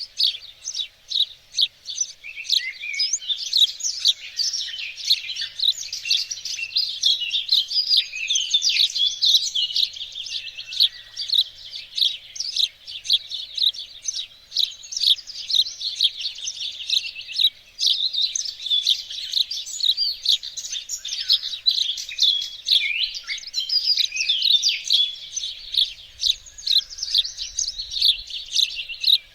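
Several songbirds singing at once: a continuous, dense chorus of overlapping high chirps, twitters and trills.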